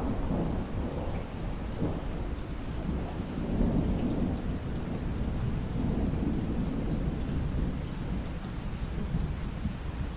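Waterfall: a steady, deep rush of falling water that swells and eases every few seconds, with faint splashes on top.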